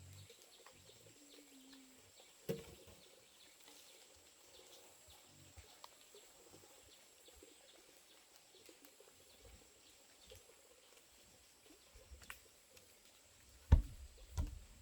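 Quiet forest ambience with a short low dove-like coo about a second in. A sharp knock comes about two and a half seconds in and a louder one near the end.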